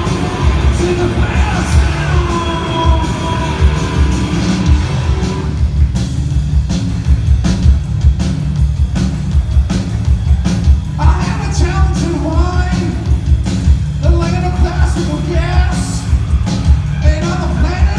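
Live rock band playing loud, with drums, guitars and bass under shouted, sung vocals, heard from the audience in a large hall. The vocals drop out about five seconds in, leaving the band playing with steady drum hits, and come back about eleven seconds in.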